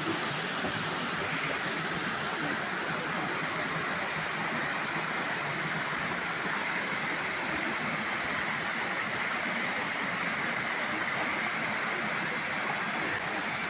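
Waterfall cascade on a mountain creek: a steady, unbroken rush of falling water.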